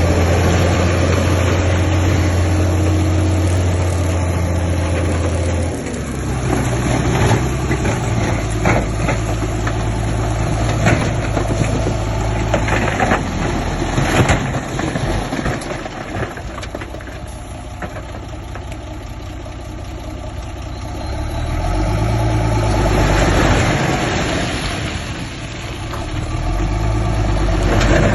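Heavy diesel engines of earthmoving machines running, changing pitch as they work, with scattered clanks and knocks around the middle.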